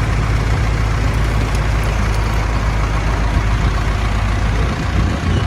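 Large old farm tractor engine running steadily with a loud, low rumble as it mows.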